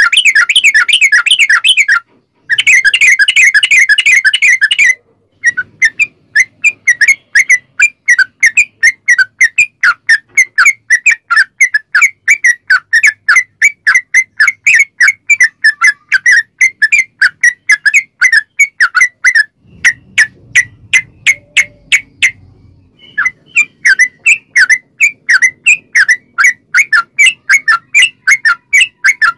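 Yellow-vented bulbul (trucukan) singing: two dense runs of rapid, rolling chatter, then a long series of short, bright chirps at about three or four a second. The chirps thin out for a few seconds near the last third before picking up again.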